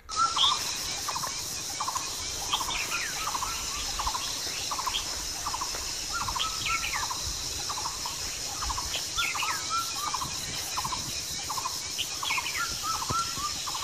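Birds calling in a forest: short trilled calls repeated about twice a second, mixed with higher falling chirps, over a steady high-pitched hiss.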